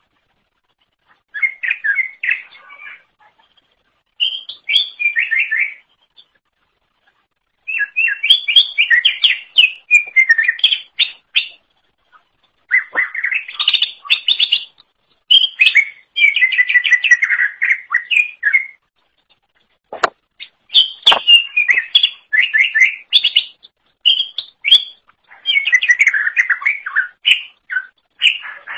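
A cucak ijo (green leafbird) singing: phrases of rapid, varied chattering and whistled notes, each a few seconds long, separated by short pauses. A couple of sharp clicks sound about two-thirds of the way through.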